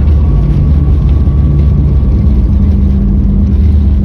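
Loud, steady cabin rumble of a Boeing 737 MAX 8 during its landing approach, with a low hum from its CFM LEAP-1B engines that steps up in pitch about halfway through.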